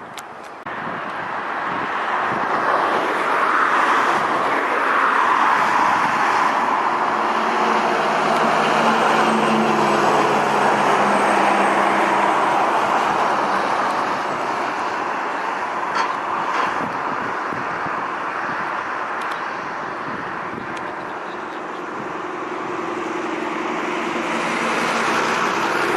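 Train running past: a steady rush of wheel and rail noise with a low mechanical hum. It builds over the first few seconds, eases off in the second half, then rises again near the end.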